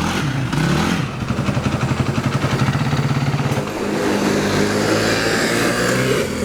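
ATV engine revving up and down as it is ridden in circles over dirt.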